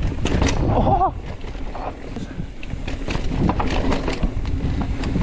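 Mountain bike riding down a rough dirt singletrack: tyres rumbling over the ground, with frequent rattling knocks from the bike as it is shaken over the bumps, and wind on the microphone.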